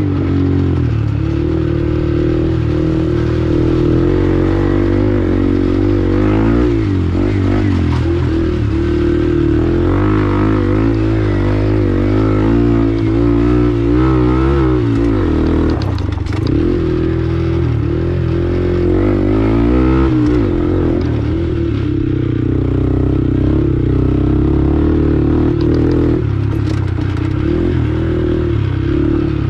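Honda Grom's 125cc single-cylinder four-stroke engine being ridden hard, revving up and dropping back again and again as the throttle is worked, with occasional brief knocks.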